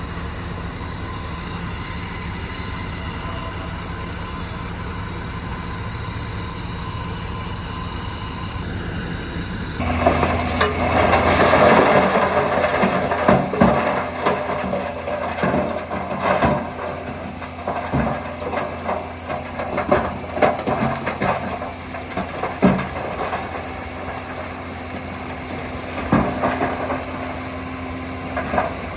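Heavy diesel earthmoving machinery running steadily. About ten seconds in, a louder machine takes over, with irregular metallic clanks, knocks and rattling through the rest.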